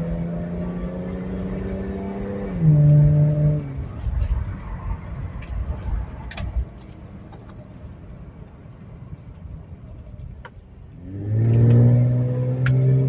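Suzuki Grand Escudo XL-7's V6 engine under way, holding a steady note. About two and a half seconds in the pitch drops, with a short louder spell. It then goes quiet for several seconds, and near the end it comes back loud, pulling again with the pitch rising.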